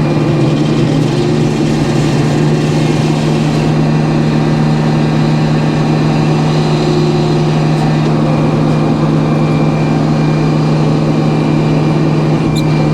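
Sawmill's engine running steadily with an even low drone and no change in speed.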